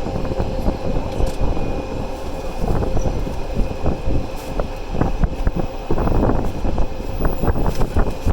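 Passenger train running along the track: a steady rumble of wheels on rails with frequent irregular knocks and rattles, and a faint steady tone over it.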